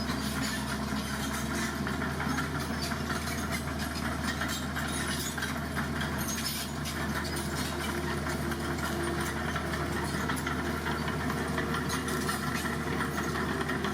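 Heavy dump truck's engine running steadily at idle.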